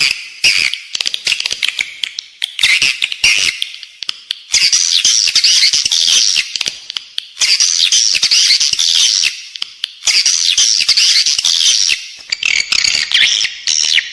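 Recorded edible-nest swiftlet calls used to lure swiftlets into a nesting building: dense, high twittering and chirping in stretches of a second or two, with brief pauses between.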